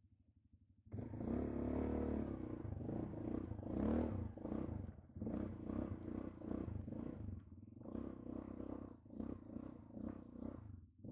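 Quad bike (ATV) engine revving hard in repeated surges, rising and falling in pitch. It cuts in abruptly about a second in after a faint low idle.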